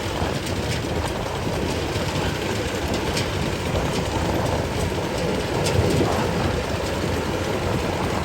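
Rice combine harvester running steadily as it harvests, a dense, even mechanical noise with a few faint clicks.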